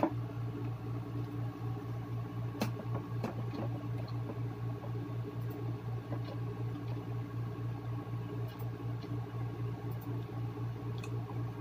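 A person chewing a mouthful of burger, with faint wet mouth sounds and a few soft clicks, over a steady machine hum.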